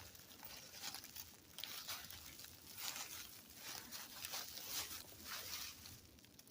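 Footsteps rustling and crunching through dry leaf litter and undergrowth, uneven swishes every second or so.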